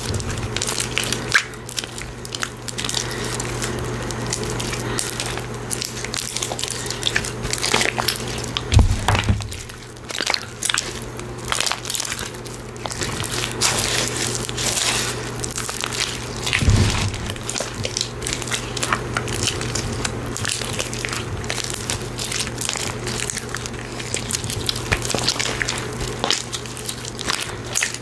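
Slime being squished and pulled by hand: a dense, continuous run of small sticky crackles and clicks, with a couple of heavier thumps partway through, over a steady low hum.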